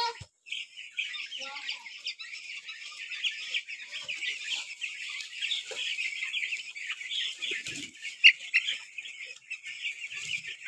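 A crowded flock of young chicks peeping constantly: a dense chorus of short, high cheeps, with a couple of louder single chirps about eight seconds in.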